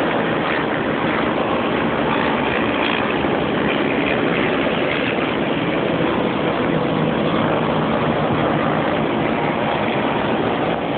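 Many racing quad bike and sidecar motorcycle engines running together on the beach, a steady, dense mass of engine noise with no single engine standing out.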